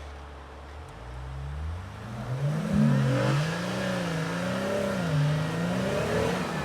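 Jeep engine revving hard, climbing from about a second in and then rising and falling over and over in pitch, as when a Jeep works to get unstuck in snow.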